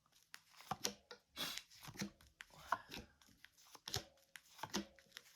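Tarot cards being handled: a string of light card snaps and slides with short papery rustles as cards are drawn from the deck and laid out.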